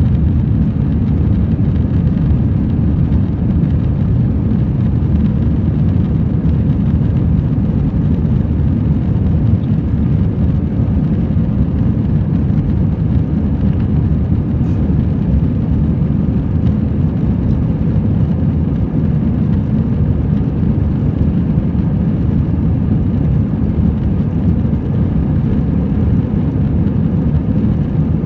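Airbus A321-200 cabin noise heard from a window seat during the climb after takeoff: a steady low rumble of the jet engines and airflow, unchanging throughout.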